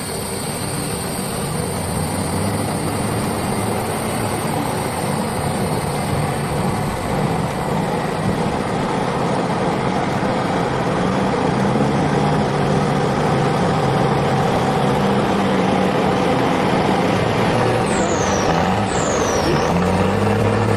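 Heavy truck engine running steadily, with a few short, high falling squeaks near the end.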